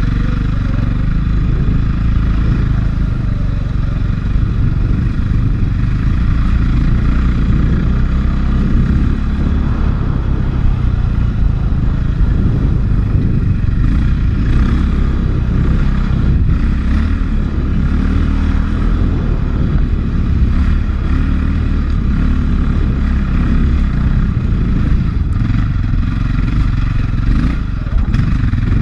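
A 450cc single-cylinder four-stroke enduro dirt bike engine running steadily on a trail, heard from a helmet camera, with scattered knocks and rattles from the bike over rough ground.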